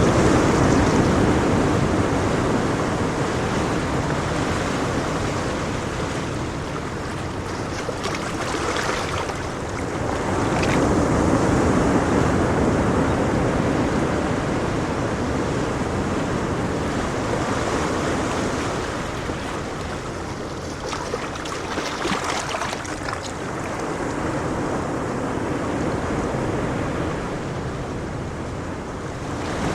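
Ocean surf, waves washing in and out in slow swells of steady rushing noise, louder at the start, again about ten seconds in, and at the very end.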